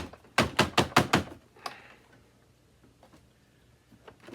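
A quick run of about six sharp clicks and knocks as the parts of a Hoover WindTunnel 2 vacuum cleaner are handled and fitted together, followed by a quieter stretch.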